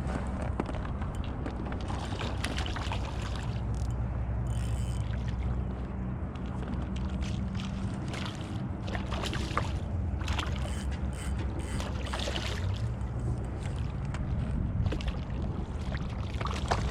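Ambient sound from a fishing kayak on the water: a steady low hum and even noise, with scattered light clicks and knocks.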